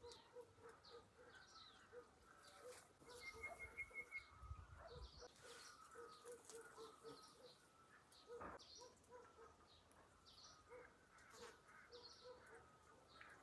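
Faint birds calling: many short, high chirps scattered throughout, over a lower note that repeats a few times a second.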